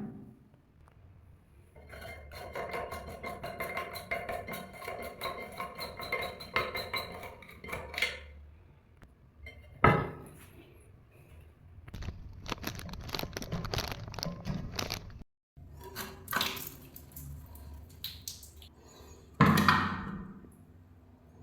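Hard ceramic and plastic parts of a toilet cistern and its float valve being handled and fitted: runs of small clicks and clinks, with a sharp knock about ten seconds in and another near the end.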